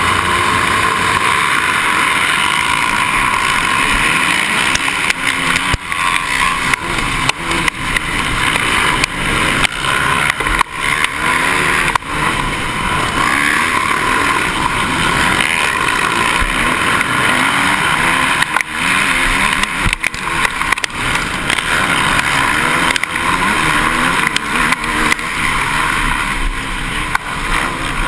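A pack of MX1 motocross bikes racing, many engines revving up and down over one another in a continuous loud din.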